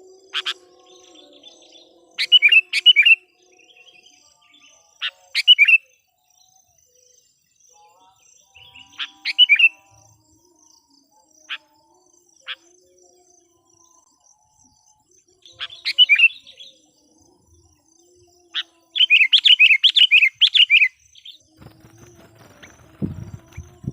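Sooty-headed bulbul (kutilang) decoy bird calling: short, bubbly chirping phrases every few seconds, with single sharp notes in between. The longest phrase comes about three-quarters of the way through, and a low rumble is heard near the end.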